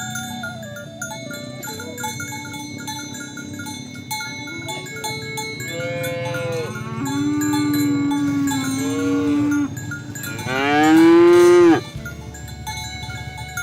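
Cattle mooing over the ringing of cowbells: a drawn-out moo from about six seconds in, then a louder moo rising in pitch near the end.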